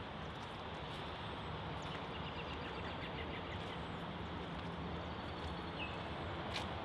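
Steady background noise with a low hum, and faint short bird-like chirps now and then, a quick run of them near the middle and one or two more near the end.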